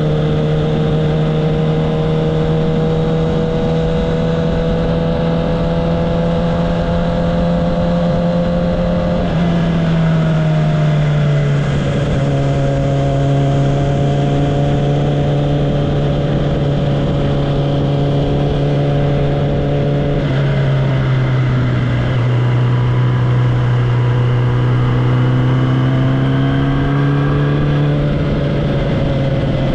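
Kawasaki ZX-10R's inline-four engine and exhaust pulling at steady, moderate revs while riding, its pitch climbing slowly and dropping in two upshifts, about a third and two-thirds of the way in.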